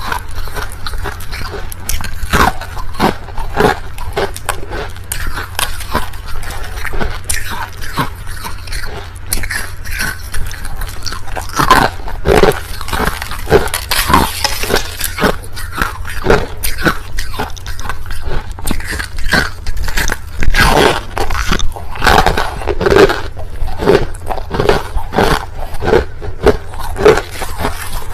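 A person chewing crushed ice close to the microphone: a dense, irregular run of loud crunches and cracks as the ice breaks between the teeth.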